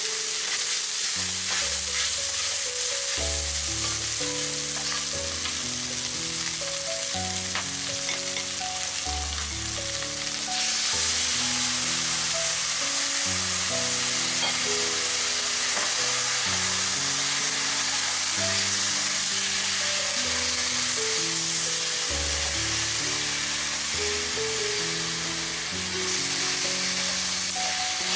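Pork slices sizzling in a hot wok as they are stirred and turned with chopsticks; the sizzle gets louder about a third of the way in.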